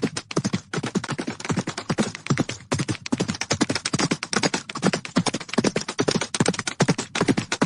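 Horses galloping: rapid, dense hoofbeats striking without a break.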